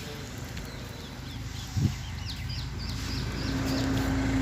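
Small birds chirping in a quick run of short high notes, with a single loud knock just before two seconds in and a low steady hum that comes in near the end.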